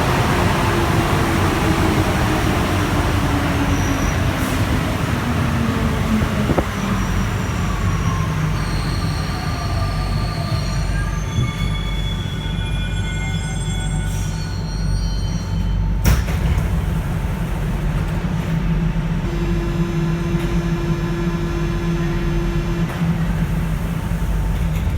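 NS-93 rubber-tyred metro train heard from on board. Its motor whine falls steadily in pitch as the train slows, then several high squeals come as it draws to a stop. Near the end a steady hum sounds while the train stands.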